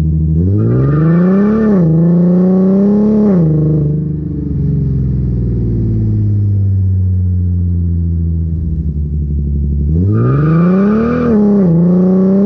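Infiniti Q50's VQ V6 engine and exhaust under hard acceleration, heard from beneath the car. The revs climb with a brief dip for a shift about two seconds in, ease off to a steady lower drone, then climb hard again near the end with another shift.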